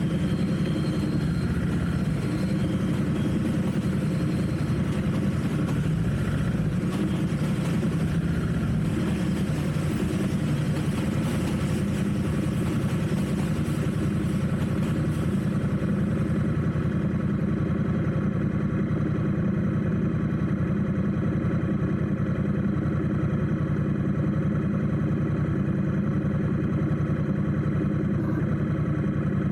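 Motorcycle engine running steadily at low revs in slow traffic. A higher hiss of surrounding traffic above it thins out about halfway through.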